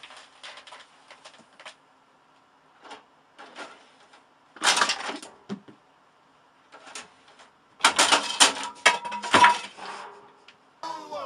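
Clattering and knocking of hard household objects as a cat scrambles about, in two loud spells: one about four and a half seconds in and a longer one from about eight to nine and a half seconds, with light tapping before them.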